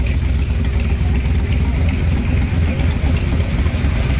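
A steady low engine rumble, like a vehicle idling.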